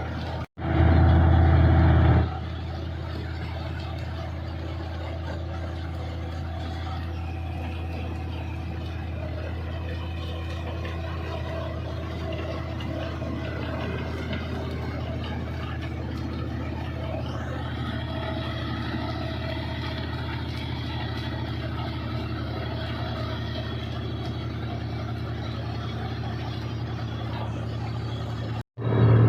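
Combine harvester's diesel engine and machinery running steadily at working speed. There is a louder, deeper stretch of about a second and a half just after a brief cut near the start.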